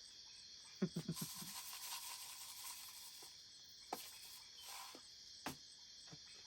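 Steady night chorus of crickets and other insects, with a short run of soft taps about a second in and a few isolated clicks later, like utensils on plates.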